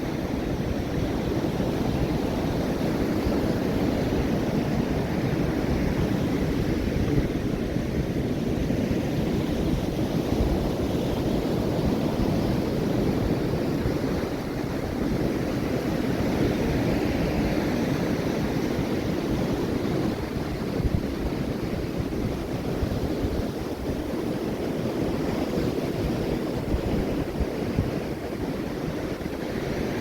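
Ocean surf washing steadily onto the beach, the wash rising and falling in slow swells, with wind buffeting the microphone.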